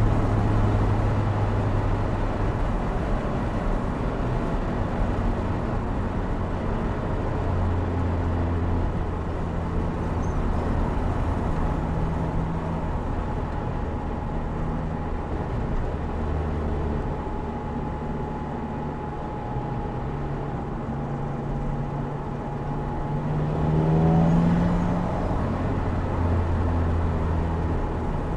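Opel Speedster Turbo's mid-mounted turbocharged 2.0-litre four-cylinder engine running at steady cruising revs, with road noise, heard from just behind the seats of the open car. About 24 seconds in, the revs climb briefly and then settle again.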